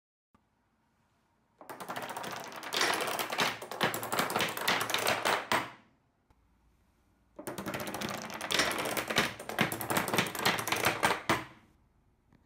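Metal padlocks toppling one against the next in a domino chain: a rapid run of clattering clicks that builds and then fades, heard twice, each run about four seconds long.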